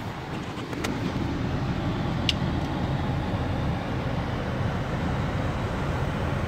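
2014 Jeep Wrangler's 3.6-litre V6 idling steadily at about 800 rpm, with two sharp clicks, about one and two seconds in.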